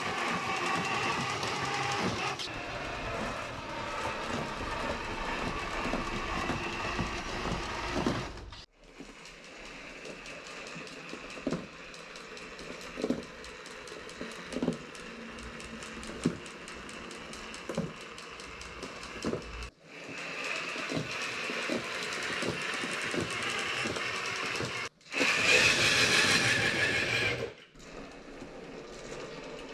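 Traxxas TRX-4 RC crawler's electric motor and geared drivetrain running in several cut-together test runs, with short knocks about every second and a half as the wheels go over the bump on the test stand.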